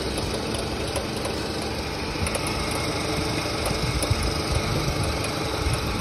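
Nissan Grand Livina engine idling steadily, heard up close under the open hood with the air-conditioning running while refrigerant is charged into the system.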